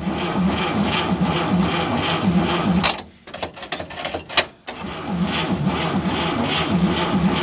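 A 1946 Chevrolet truck's 235 inline-six is being cranked over by its starter in an even, rhythmic chug of about three to four strokes a second, without catching. It stops briefly with a few clicks a little after halfway, then cranks again.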